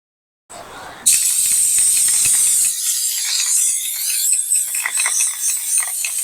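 High-output Rust-Oleum Turbo aerosol can spraying bed liner: a loud, steady hiss of the spray that starts about a second in, after a brief softer sound.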